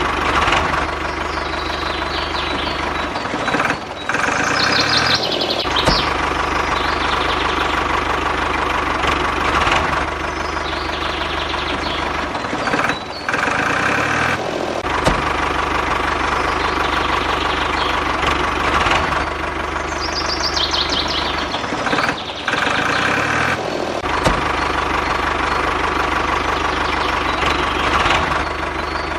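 An engine-like running sound, steady and continuous, with a pattern of brief dips and higher rising streaks that repeats about every nine seconds.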